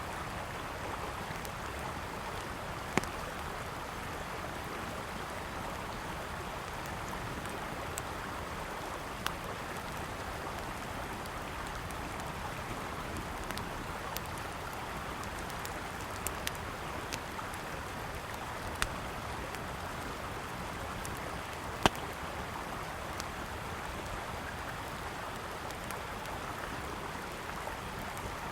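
Steady rush of a flowing river with the scattered sharp pops and crackles of a burning wood campfire, about ten in all, the loudest about 22 seconds in.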